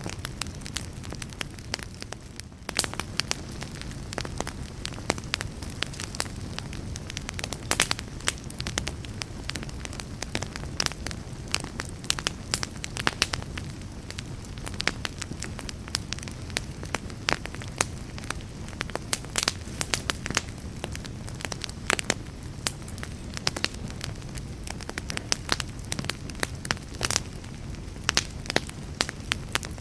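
Wood campfire crackling, with frequent sharp pops and snaps over a low, steady rush of the burning fire.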